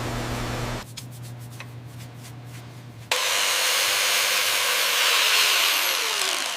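A steady mechanical hum cuts off about a second in, followed by a quieter stretch with a few light clicks; about three seconds in a loud, steady hiss starts suddenly, with a falling tone near the end.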